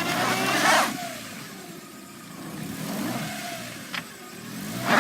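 1997 Toyota Tercel's four-cylinder engine revving in two surges, one at the start and a smaller one about three seconds in, with a hiss during the first surge, as the car tries to drive out of deep snow where it is stuck. A short click comes near the end.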